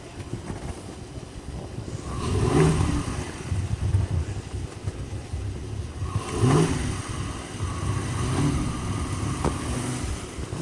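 Dodge Charger R/T's HEMI V8 engine pushing the AWD car through deep snow, revving up twice, about two and a half seconds in and again a little past the middle, over a steady engine note.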